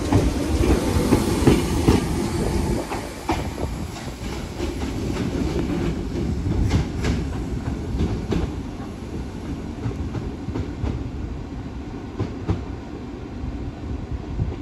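Class 508 electric multiple unit pulling out and running away. It is loudest in the first few seconds, then fades, with wheels clacking over rail joints at intervals.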